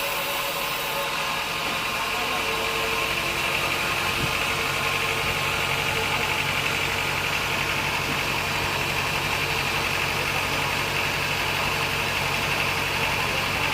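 Sawmill machinery running steadily, an even engine-like hum with no starts, stops or changes.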